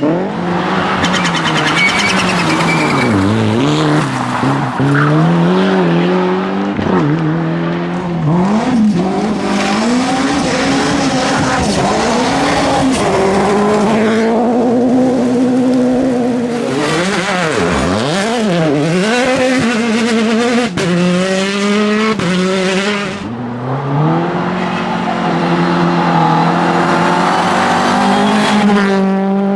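Rally car engines at full throttle, pitch climbing and dropping again and again as the cars shift gear and pass close by.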